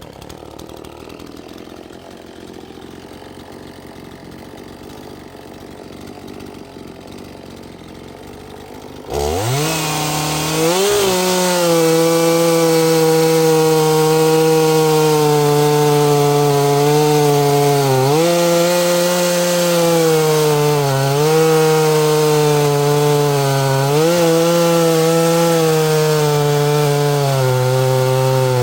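Small gas chainsaw cutting through a log at full throttle. After a quieter first third, it revs up sharply and holds high, with the pitch dipping briefly several times as the chain bites into the wood.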